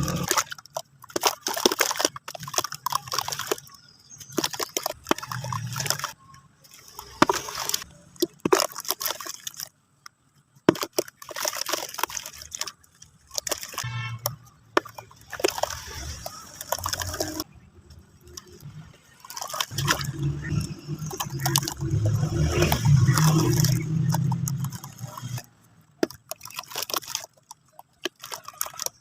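Crumbly sand-cement chunks being crushed and crumbled, in irregular bursts of crackling with brief pauses between.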